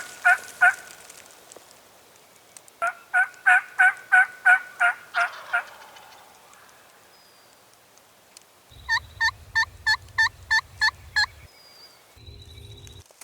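Wild turkey calling in runs of about eight evenly spaced, pitched notes. One run comes early, a second comes in the middle, and a higher-pitched run comes later over a low rumble.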